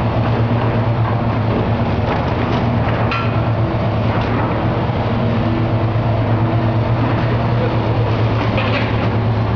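A heavy demolition machine's engine running steadily with a deep hum, with scattered knocks and crunches, about three seconds in and near the end.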